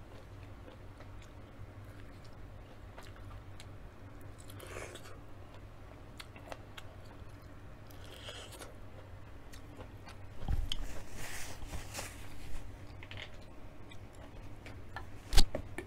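Biting and chewing corn kernels off the cob, with wet crunchy mouth sounds, louder for a couple of seconds about ten seconds in. A single sharp clack near the end.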